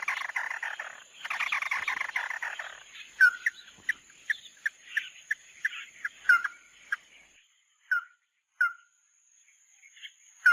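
Bird calls of the bird known in Vietnamese as 'mắt đỏ', from a trapping lure recording: two fast rattling trills in the first few seconds, then a run of short, sharp single notes that come further and further apart, with a brief pause before a last few notes near the end.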